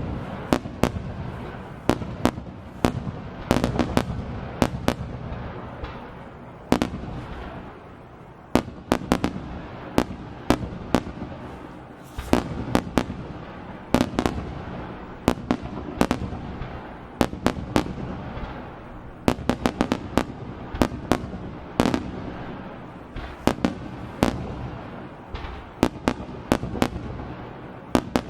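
Aerial firework shells bursting in rapid succession: sharp bangs, several a second, over a continuous low rumble of overlapping reports and echoes.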